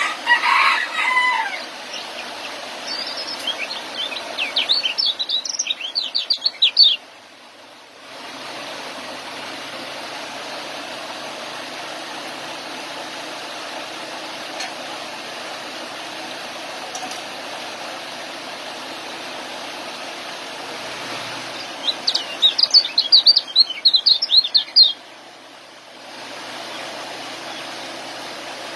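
Young kecial songbird singing its ngeriwik: quick bursts of rapid, high twittering chirps, three times with long gaps between, over a steady background hiss.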